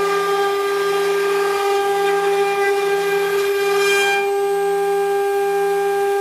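Spindle of an ATC CNC engraving machine running at a steady high-pitched whine while engraving a mould, with a brief hiss about four seconds in.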